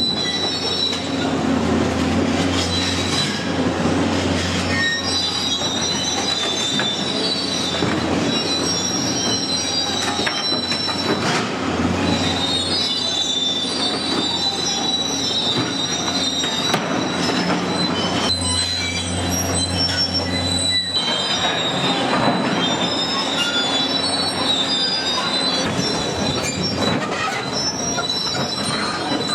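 Rail vehicle rolling on steel track, its wheels squealing in high tones over a steady low hum that fades after about twenty seconds.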